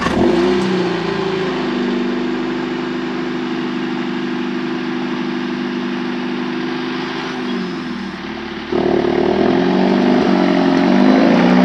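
Mercedes-AMG CLA 45 S's 2.0-litre turbocharged four-cylinder engine idling steadily just after starting. About nine seconds in, its note rises and gets louder as the car moves off.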